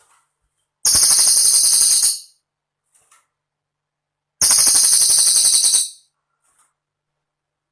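Cililin bird singing: two high, fast trilling phrases of about a second and a half each, the second coming about three and a half seconds after the first.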